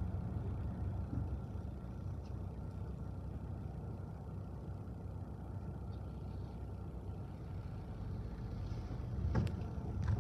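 Steady low rumble of a car idling in traffic, heard from inside the cabin. About nine seconds in, a couple of sharp knocks or clicks.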